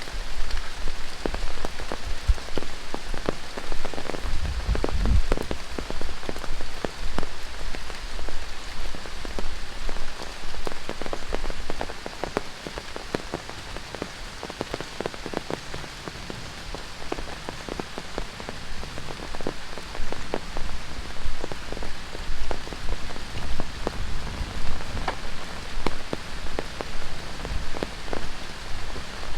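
Heavy tropical rain falling on rainforest foliage: a steady hiss with many close, sharp drop hits. It eases somewhat for several seconds midway, then picks up again, with a brief low rumble about five seconds in.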